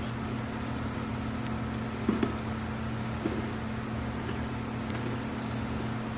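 Steady low electrical hum, with a few faint short clicks about two and three seconds in.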